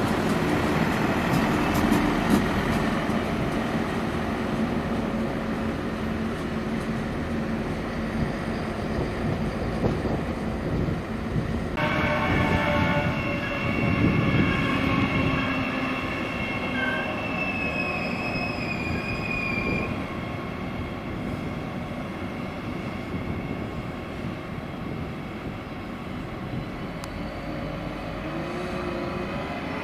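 A train running in the station, a steady rumble with wind buffeting the microphone. About twelve seconds in, several steady high-pitched tones set in over it, a couple gliding slightly down near twenty seconds, and the sound slowly fades toward the end.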